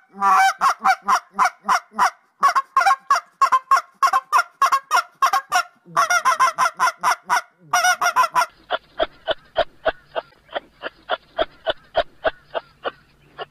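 Canada goose honking in rapid runs, about four honks a second, with short breaks between the runs. About eight and a half seconds in, this gives way to a fainter, evenly paced series of short calls, about three a second.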